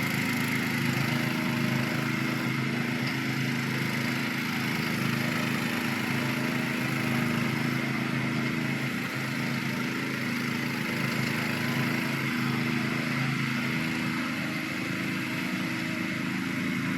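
Small petrol engine of a home-built ride-on zero-turn lawn mower running steadily at an even speed.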